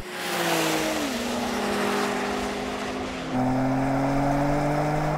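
BMW performance car's engine running hard under full-throttle acceleration in a drag race, over heavy wind and tyre noise. The engine note holds nearly steady, drops in pitch about a second in as it shifts up, and changes and grows louder just past three seconds.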